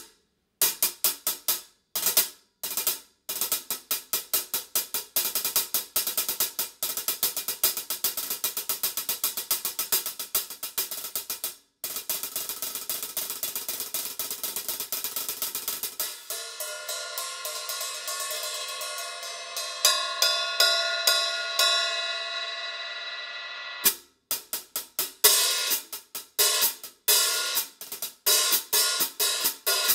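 Paiste 14-inch Sound Creation Dark Heavy Sound Edge hi-hats (1160 g top, 1280 g bottom) played with a stick: a few scattered strokes, then a fast, even run of tight strokes, then about eight seconds of ringing, washy strokes. After a short break, choppy strokes start again near the end.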